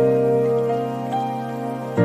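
Slow, soft solo piano music: a chord struck at the start, then single notes added about two-thirds of a second and a second in, ringing on. A faint hiss of rain runs underneath.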